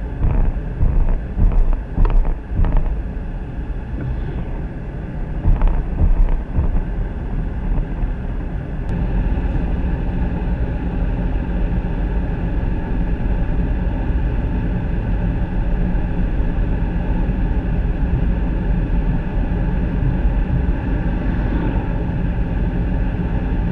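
Uneven gusts of wind noise on the microphone, then about nine seconds in a steady motor drone takes over and holds.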